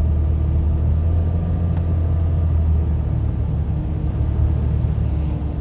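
Truck driving along a road, its engine and tyres making a steady low rumble heard from inside the cab.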